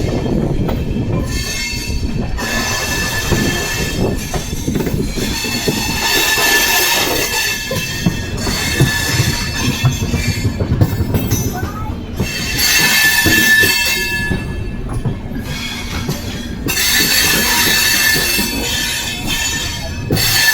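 Amrit Bharat Express coach wheels running on the rails with a continuous low rumble, broken by three long stretches of high-pitched wheel squeal.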